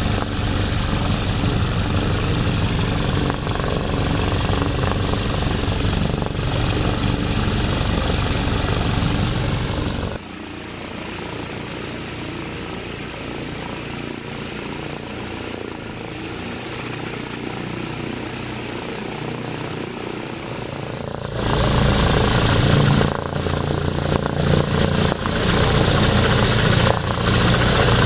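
Replica S.E.5a biplane's engine and propeller running on the ground. It runs loud, drops to a noticeably quieter, lower setting about ten seconds in, and opens up again to full loudness about two-thirds of the way through.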